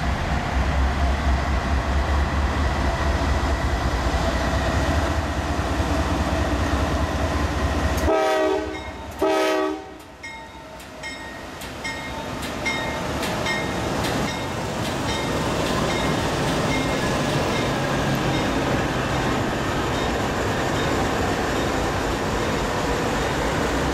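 Norfolk Southern GE diesel freight locomotives approach and pass with a heavy low engine rumble. About eight seconds in, the locomotive horn sounds two short blasts. Then the wheels click over the rail joints as the train's cars roll past.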